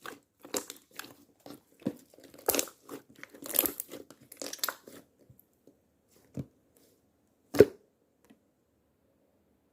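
Slime being squeezed and stretched by hand, giving a quick run of crackling, crinkling pops for about five seconds, then two soft thumps, the second louder.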